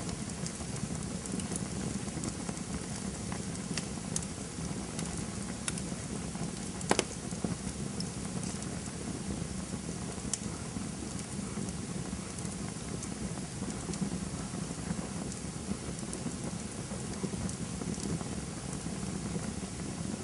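Campfire burning: a steady hiss with many small crackles from the wood, and one louder pop about seven seconds in.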